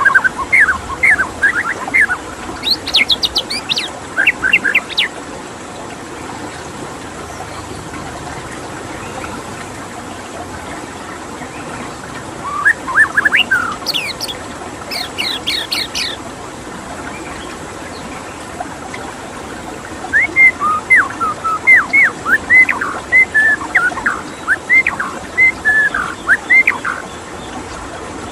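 White-rumped shama singing three spells of quick whistled phrases that sweep up and down in pitch, over a steady rush of running water.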